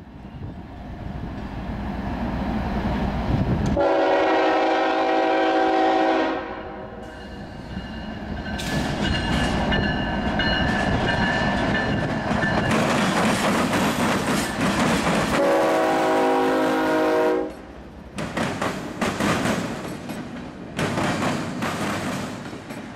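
Diesel freight train passing with a steady engine rumble and two long horn blasts, about four seconds in and again near the two-thirds mark. Near the end, a rapid run of wheel clicks and bangs comes from the freight cars crossing the rail diamond.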